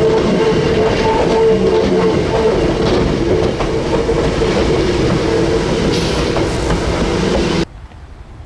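Hakone Tozan Railway electric train running by on the track, a dense steady rumble with a few held tones over it. It cuts off suddenly near the end.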